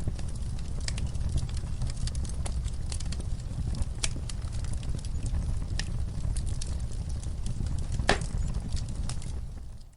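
Wood fire crackling, with irregular sharp pops over a steady low rumble; the loudest pop comes about eight seconds in. The sound dips away to near silence right at the end.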